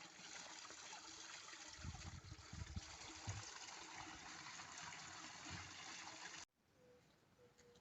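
Water running in a stream, a steady faint rushing with a few low bumps, cutting off suddenly about six and a half seconds in.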